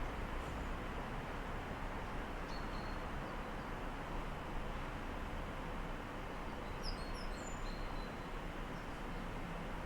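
Steady hum of distant city traffic heard through an open window, with a few short bird chirps about two and a half seconds in and a cluster of them around seven to eight seconds in.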